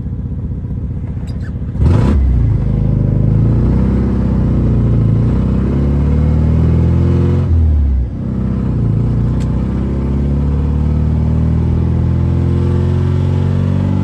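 BMW E36's engine heard from inside the car while driving. About two seconds in it suddenly gets louder as it accelerates. Around eight seconds there is a brief drop, like a gear change, and then it keeps pulling.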